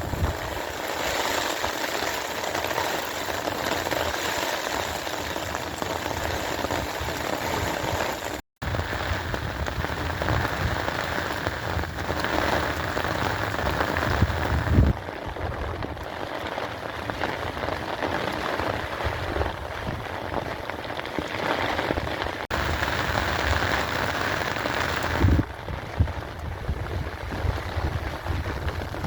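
Steady heavy rain, a continuous hiss of drops falling on surfaces. The sound cuts out for an instant about a third of the way in.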